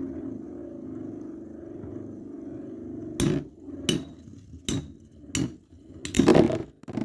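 Metal Fight Beyblade spinning tops (Counter Scorpio 145D and Cyber Aquario 105RF) whirring steadily, then four sharp clacks about two-thirds of a second apart and a short clattering burst near the end.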